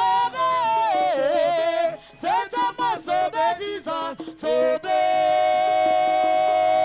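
Worship singing: a few short sung phrases, then one long held note that slides down at the end.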